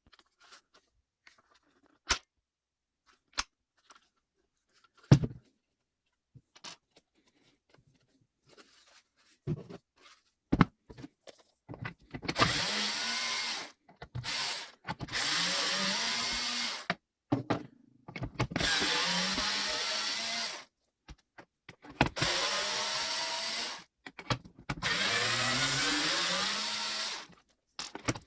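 GRUNDER GY2191 18V cordless chainsaw's electric motor running in repeated short bursts from about twelve seconds in, its pitch rising as it spins up at the start of each burst. Before that, a scattering of separate sharp clicks and knocks.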